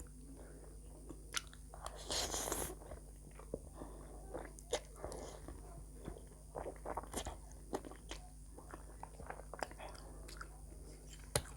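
Faint, close-miked chewing and biting of a mouthful of pork chow mein noodles, with scattered small wet clicks and one longer rustling burst about two seconds in.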